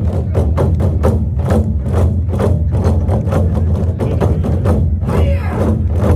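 Korean buk drums beaten by a drum troupe in a fast, steady rhythm of about five strokes a second, with a deep, continuous low boom under the strokes.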